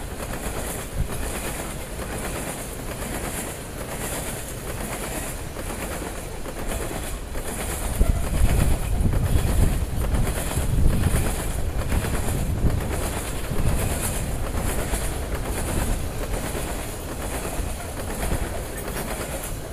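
Loaded coal hopper cars of a freight train rolling past, steel wheels clacking in a steady rhythm on the rails. A heavier low rumble comes in about eight seconds in.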